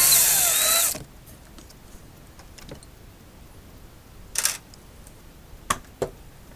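Cordless power screwdriver motor whining, its pitch rising and falling with the trigger, then stopping about a second in. Later comes a brief scraping rustle and then two sharp small clicks.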